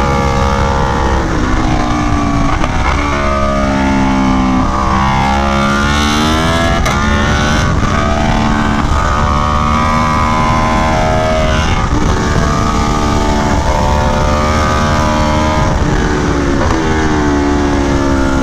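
Aprilia Tuono V4 1100 Factory's V4 engine through an SC Project CR-T exhaust, revving hard on track. Its pitch climbs under acceleration several times and falls away between the pulls, over a steady rush of wind.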